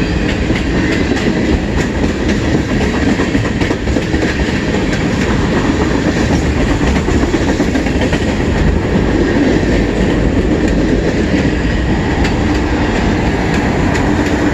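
Train cars rolling past on the CN main line: a steady loud rumble of steel wheels on rail, with faint clicks of wheels crossing rail joints.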